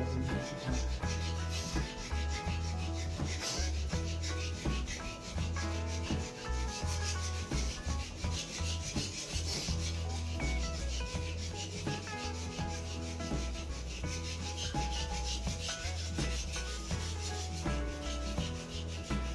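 Sandpaper rubbing back and forth on a wooden snooker cue shaft in quick, steady strokes, with background music underneath.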